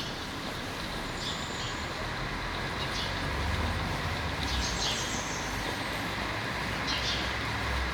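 Birds chirping in short repeated calls over a steady outdoor hiss, with a low rumble that swells in the middle and fades again.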